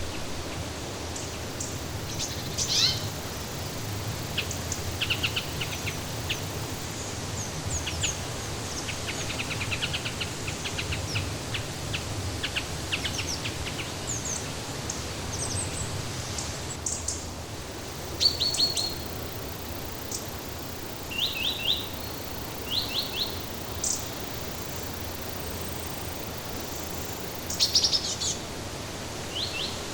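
Songbirds chirping and calling in short, high bursts over a steady rushing background noise.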